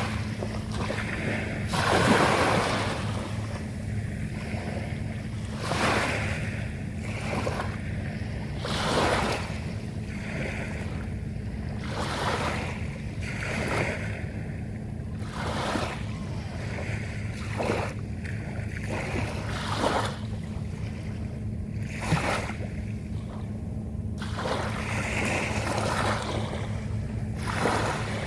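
Small sea waves breaking and washing onto the shore, a swell of surf every few seconds over a steady low hum.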